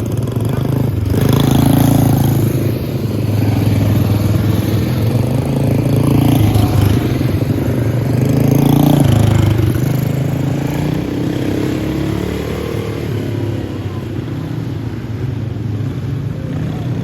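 Small single-cylinder four-stroke kart engines (Briggs & Stratton Animal class) racing, their pitch rising and falling repeatedly as the karts accelerate out of corners and slow into them.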